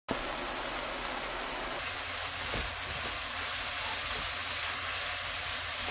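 Seasoned fish cake strips and vegetables sizzling steadily in a hot frying pan as they are stirred, with a few faint ticks from the spatula.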